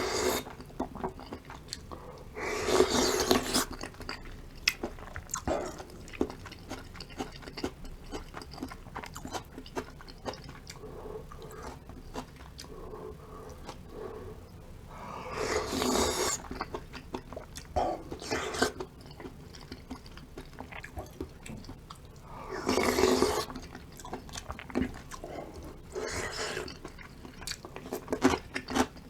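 Close-up mouth sounds of someone eating spicy beef soup with cubed radish kimchi: steady chewing with small wet clicks. About four times the sound rises to a louder, longer burst of eating noise lasting about a second.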